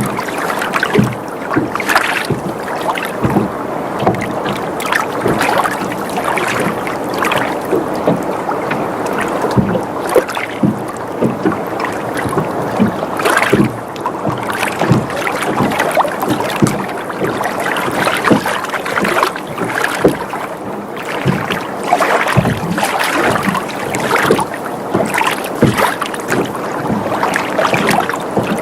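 Water sloshing and lapping against a sailboat's hull, with the boat creaking and knocking irregularly as it rocks on gentle waves.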